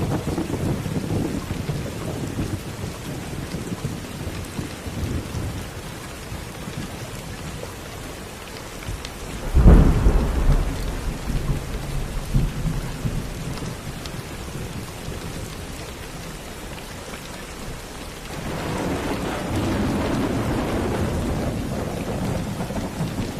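Steady rain with thunder: low rumbling at first, a sudden loud clap about ten seconds in that rumbles away over the next few seconds, and another rumble building near the end.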